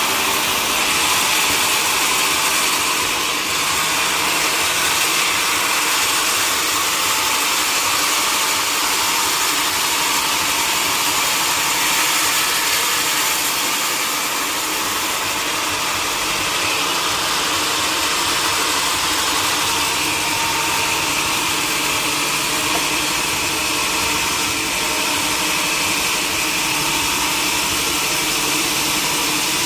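Sawmill machinery running steadily: a constant engine-like mechanical noise with no breaks or changes in level.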